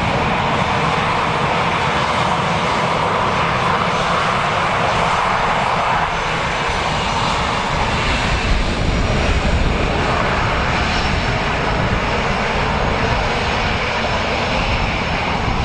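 Loud, steady roar of an airliner's engines close by.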